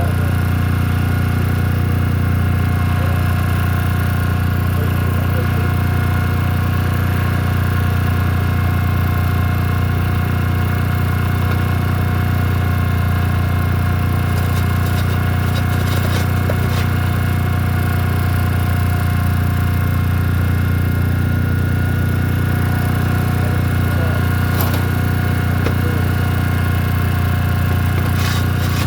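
An engine running steadily at a constant speed, with a few faint clicks near the end.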